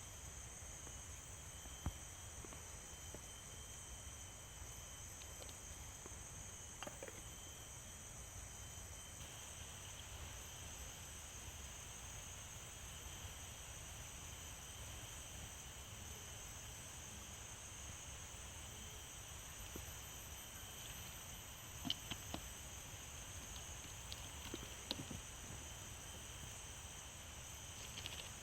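Insect chorus in Kalimantan rainforest: several steady high-pitched drones and trills held together. A few faint clicks or snaps are scattered through, a small cluster of them about three-quarters through.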